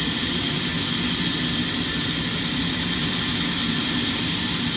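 Sawmill machinery running at a steady, even level, a constant hum with a hiss on top and no separate knocks or changes.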